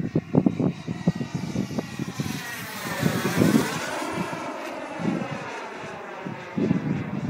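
Radio-controlled model F-16 jet flying past, its engine noise swelling to a peak about three seconds in and then fading away.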